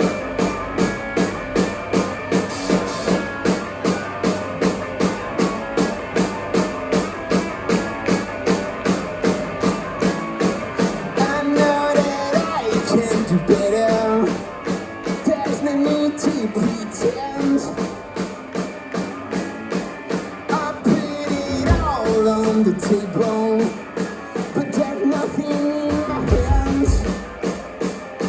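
Rock band playing an instrumental passage: a steady, driving drum beat under guitars, with a lead guitar melody coming in about eleven seconds in.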